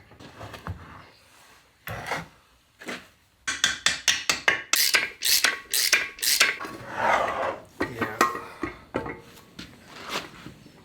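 Metal gearbox parts being handled while a layshaft distance piece is fitted and tried: a few scattered clicks, then a busy run of clicks, knocks and scraping of metal on metal for a few seconds, thinning out towards the end.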